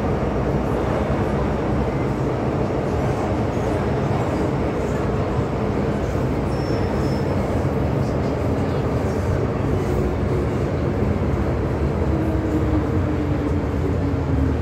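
MTR M-Train electric metro train running through a tunnel, a steady rumble of wheels on rail. Over the last few seconds a faint motor whine falls slowly in pitch as the train slows.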